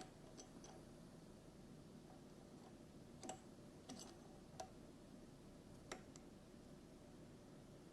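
Near silence, broken by a few faint, scattered clicks and light metallic taps from metal tools being handled.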